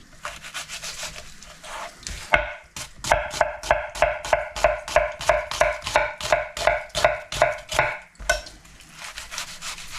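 Kitchen knife chopping rapidly on a cutting board. After a few scattered knocks, an even run of strokes starts about three seconds in, about four to five a second, each with a short ringing knock, and stops about eight seconds in.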